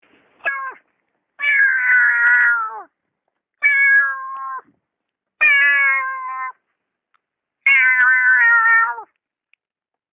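A man imitating a cat's meow with his voice: a short meow about half a second in, then four drawn-out meows with silence between them.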